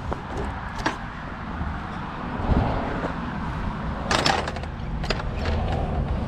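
Steady low rumble of wind and rolling tyres on a moving gravel bike, with a few sharp rattles from the bike and a louder clattering rattle about four seconds in.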